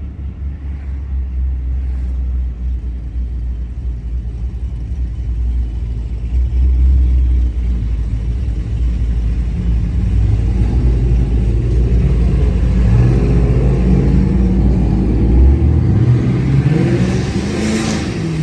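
Modified V8 car exhaust running with a deep steady rumble, then revved up and down repeatedly from about ten seconds in. A rushing hiss rises near the end.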